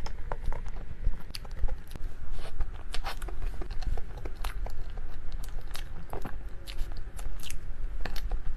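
A person biting and chewing food close to the microphone, with many irregular crisp clicks and crunches.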